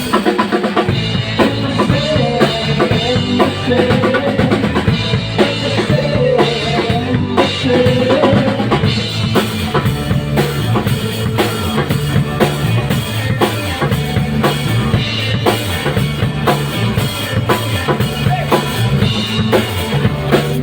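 A band playing loud music: a drum kit keeps a steady beat with bass drum, snare and rimshots over a low bass line, and the music cuts off at the very end.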